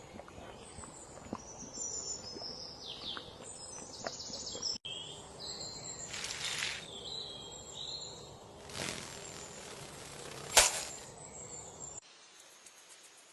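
Outdoor ambience with small birds chirping in short high calls, two brief rustling bursts, and a sharp click about ten and a half seconds in. It turns quieter near the end.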